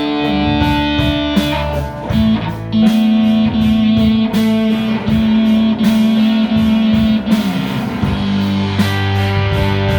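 A live rock band playing an instrumental passage: guitar with held notes over a steady drum beat.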